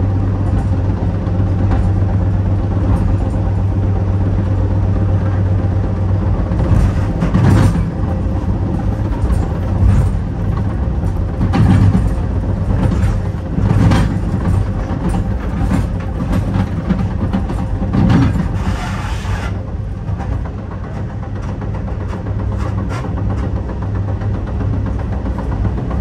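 Metra commuter train running at speed, heard from inside the car: a steady low rumble of wheels on rail. Every few seconds it is broken by a short clatter as the wheels cross track joints and switches.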